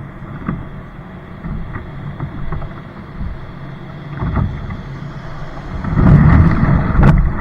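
Wind rumbling on the microphone over water sounds from a kayak, with scattered light knocks. It gets much louder about six seconds in, with a sharp click shortly after.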